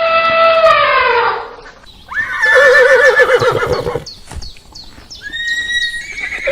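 Horse whinnying in several calls: a long call that falls in pitch and fades about a second in, then a loud whinny with a shaking, wavering pitch from about two to four seconds in, and a higher call starting near the end.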